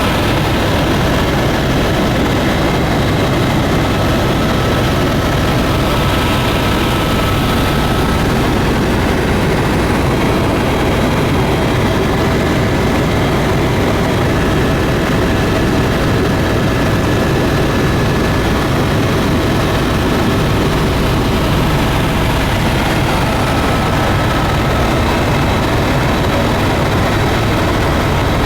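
Steady drone of a tour aircraft's engines in flight: an unbroken, even noise with a few faint steady tones and no change in level.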